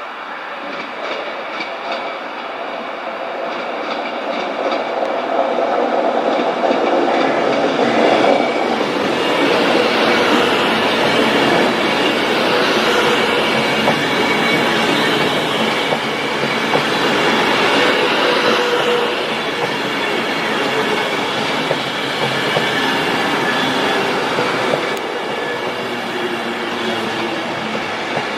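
A train running past at close range, its wheels clicking over rail joints and points, getting louder over the first eight seconds or so and then staying loud, with some wheel squeal.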